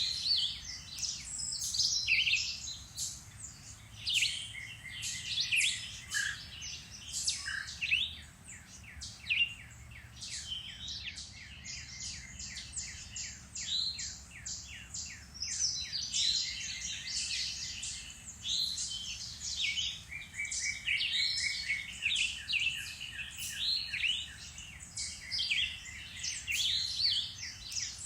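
Several songbirds singing at once in spring woodland: overlapping chirps, rapid trills and short whistled phrases, with no pause.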